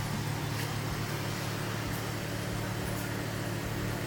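Car engine idling, a steady low hum with no change in pitch or level.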